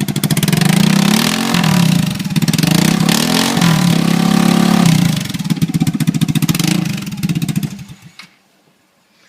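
Vespa scooter engine running very loud and open with its exhaust pipe fallen off, sounding like a tank; the throttle is blipped twice, and the engine is switched off about eight seconds in.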